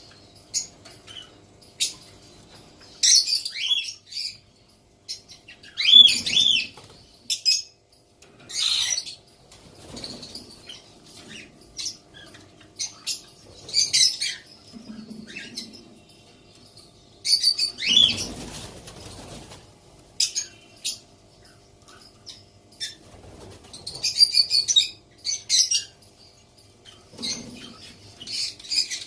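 Baby white cockatoo giving short, harsh, raspy calls, irregularly every few seconds, with small clicks in between.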